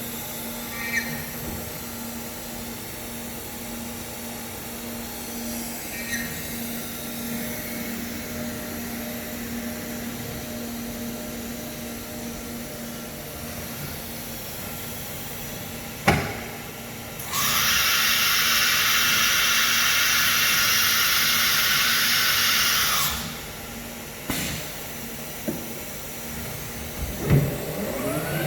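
CNC router with an automatic tool changer: a steady machine hum, then a sharp clack followed by a loud hiss of about six seconds, a few clicks, and a rising whine near the end.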